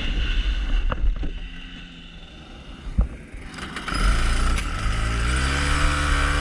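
Rotax Max 125cc two-stroke kart engine lifting off the throttle and dropping quiet for a few seconds, with a sharp knock about three seconds in. About four seconds in it comes back on the throttle, its pitch rising as it accelerates.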